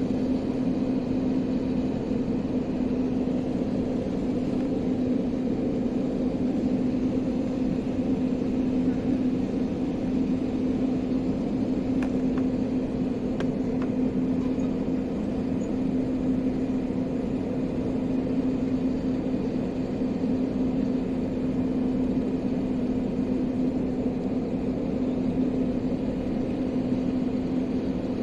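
Steady cabin drone of an airliner's engines and airflow, with a constant low hum over it.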